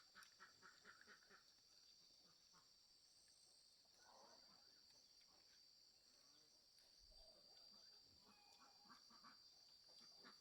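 Very faint outdoor ambience: a steady high-pitched insect drone, with faint rapid animal calls in the first second or so and again near the end.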